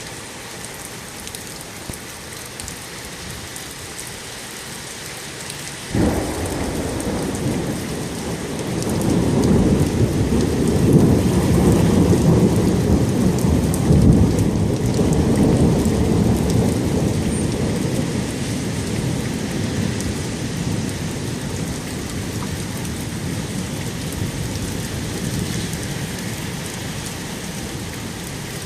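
Steady heavy rain hissing down. About six seconds in, a sudden thunderclap breaks in and rolls on as a long rumble, loudest a few seconds later and slowly dying away.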